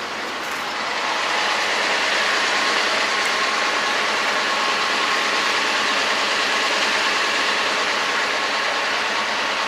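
Steady road and engine noise inside the cab of a MAZ-5440 truck on the move, swelling slightly about a second in and then holding even.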